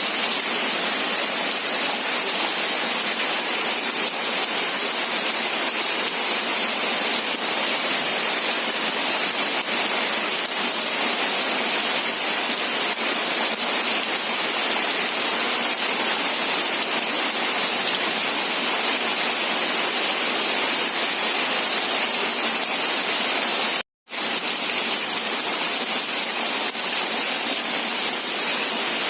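Steady, dense rainfall, a constant hiss with no separate drops standing out. The sound cuts out for a split second about three-quarters of the way through, then resumes unchanged.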